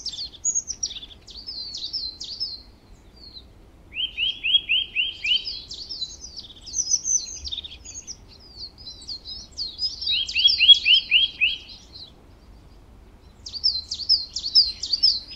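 Small songbirds chirping in short, high, quick phrases, with a run of rapid, evenly spaced lower notes about four seconds in and again about ten seconds in.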